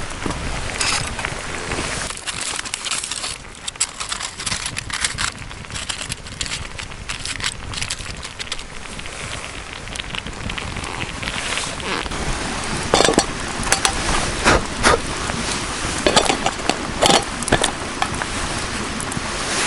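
Campfire crackling, with a steady hiss and scattered sharp pops of burning wood that grow louder and more frequent in the second half.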